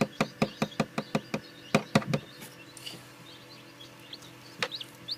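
A fast run of sharp clicks, about five a second, for the first second and a half, then two louder clicks around two seconds in. After that come soft, short, high cheeps rising in pitch: a newly hatched chick peeping.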